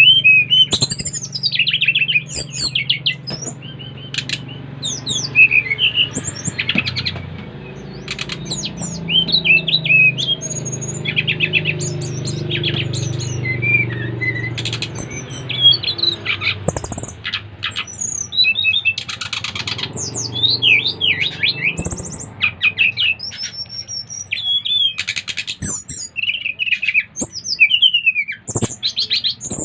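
SRDC songbirds singing in quick, varied chirps, whistles and short trills, one bird answering another, over a low steady hum.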